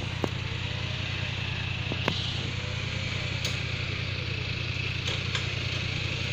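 Car engine idling steadily, with a few short faint knocks.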